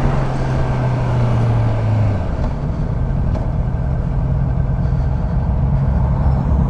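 Motorcycle engine running steadily under a continuous road noise; the engine tone is strongest for the first two seconds, then eases slightly.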